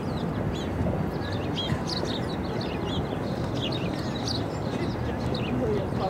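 Several small birds chirping rapidly in short, high, overlapping notes, over a steady low background rumble.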